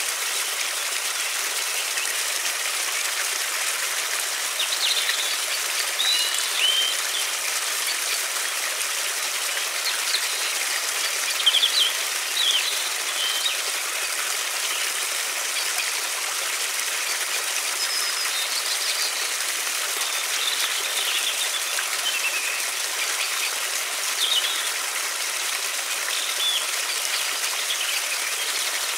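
River water flowing steadily, with small birds chirping now and then over it.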